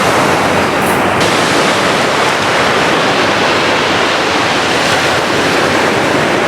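Ocean surf breaking and washing in, a loud, steady rush of wave noise with some wind on the microphone.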